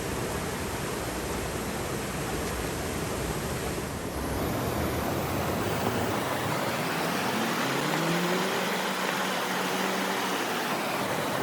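Steady rushing of river water. The sound shifts at about four seconds, and a faint rising tone comes in about two-thirds of the way through.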